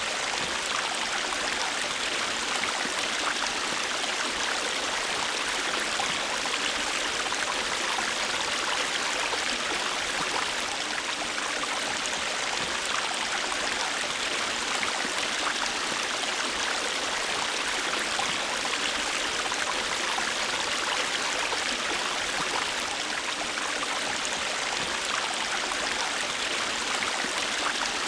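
River water flowing steadily over rocks, an even rushing and babbling with no change in level.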